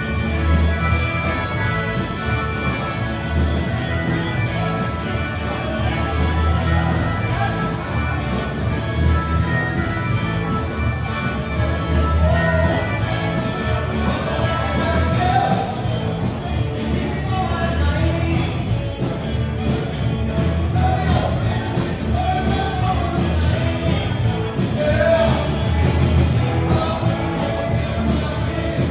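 A live rock band playing with a steady drum beat and a singer.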